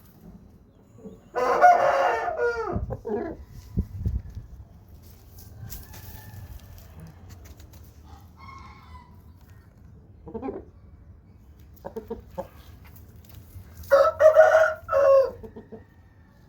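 Aseel rooster crowing twice: one long crow about a second and a half in and another near the end, with a few faint short sounds between them.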